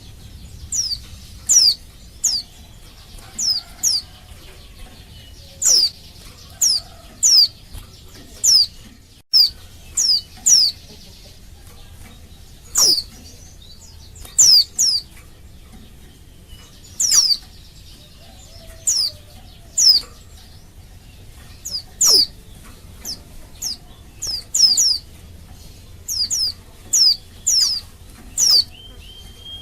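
Female white-eye (pleci) calling: short, sharp high-pitched notes that each drop quickly in pitch, often in quick pairs, repeated irregularly. This is the call of a female in breeding condition that draws male white-eyes to answer.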